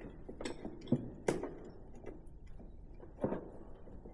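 A few short clicks and light taps from small parts being handled, the sharpest about a second in and another near three seconds: metal sleeves and rubber grommets being worked out of the factory intake mounts with a pick.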